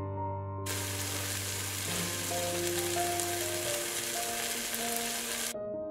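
Food sizzling in hot oil in a pan: an even frying hiss that starts abruptly about a second in and cuts off just before the end, over soft piano music.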